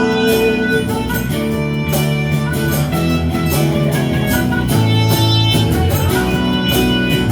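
Live band playing an instrumental passage between sung lines, led by strummed guitar over bass and drums.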